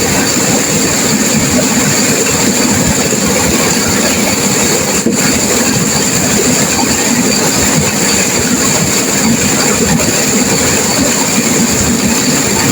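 Turbulent river water rushing and crashing, a loud steady roar.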